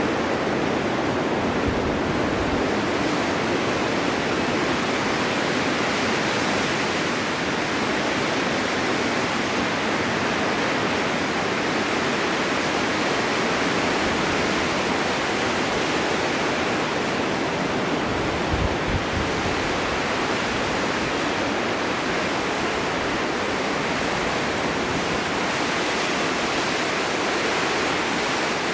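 Steady winter wind blowing hard through a forest in a snowstorm, an even rushing noise that swells and eases only slightly.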